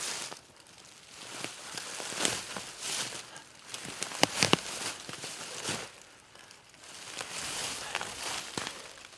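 Irregular rustling and crunching of a person moving and handling material in forest litter, with two sharp cracks about four seconds in.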